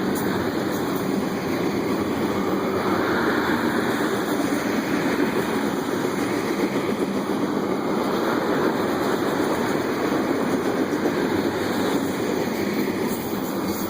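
Freight train of tank cars rolling past, a steady noise of wheels on the rails with no break.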